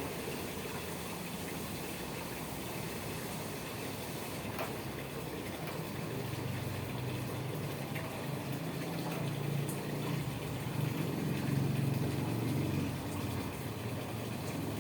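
Liquid spraying and splashing while a truck engine's valve rocker-arm area is washed, over a low hum that grows louder in the second half.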